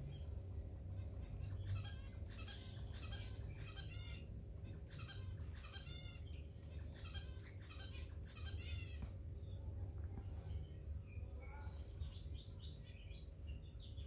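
Small aviary birds chirping: a run of short high calls and buzzy trills, then a few clear high notes and a quick falling series near the end, over a steady low hum.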